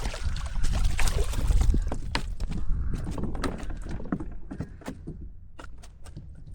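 Knocks and clatter on a kayak with water movement, heavy low rumble over the microphone in the first two seconds, then sharp clicks and knocks scattered through the rest.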